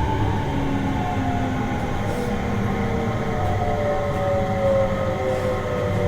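Seibu 30000 series electric train heard from inside the car: a rumbling ride noise under several steady whining motor tones that slowly fall in pitch as the train slows, typical of an inverter-driven train braking toward a station stop.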